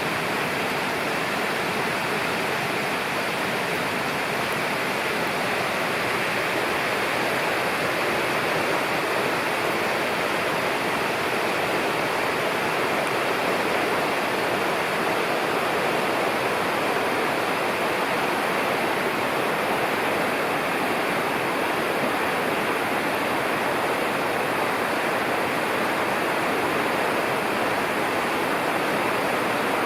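A mountain river rushing steadily, with an even, unbroken flow of water noise.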